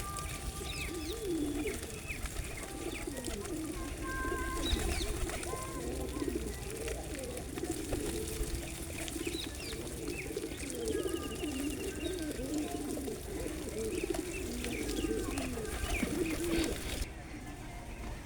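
A flock of pigeons cooing, many overlapping low rolling calls, with scattered higher chirps of small birds among them.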